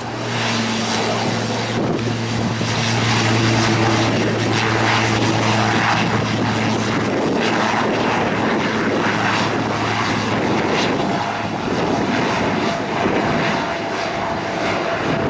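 Airplane engines running loud and steady close by. A low steady hum with a few higher tones runs through the first half and fades.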